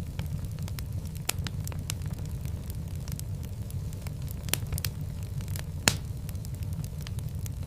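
Wood fire burning in a fireplace: a steady low rumble of flames with frequent scattered crackles and sharp pops, the loudest pop about six seconds in.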